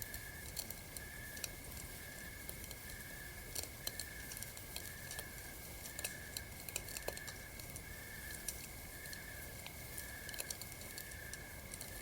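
Campfire crackling, irregular small pops and snaps over a soft low rumble, with a steady high pulsing chirp of about one and a half pulses a second running behind it.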